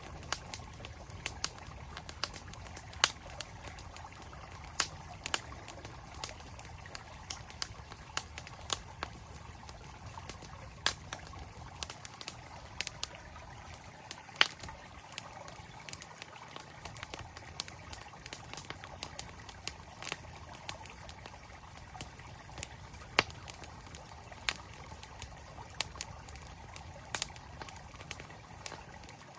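Campfire crackling with frequent sharp, irregular pops over the steady rush of a flowing mountain stream.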